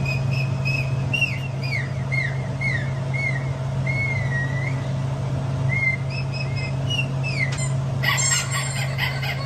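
Bird chirping played as a sound for a dog: a series of short, high, falling chirps, one long wavering whistle partway through, and a denser burst of squeaky calls near the end, over a steady low hum.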